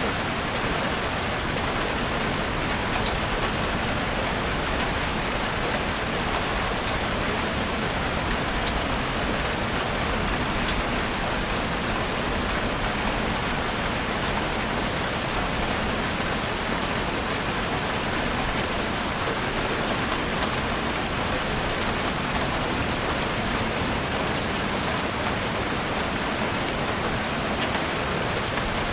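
Heavy rain drumming steadily on a roof, a dense, even patter of drops with no break.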